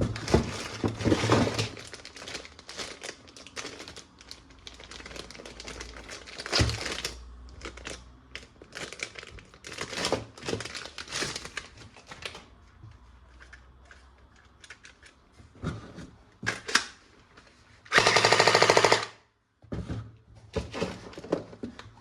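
Plastic toy guns being handled, with irregular clicks, knocks and rattles of plastic parts. About 18 s in comes a single loud rapid-fire burst of roughly a second, typical of a toy gun's firing action.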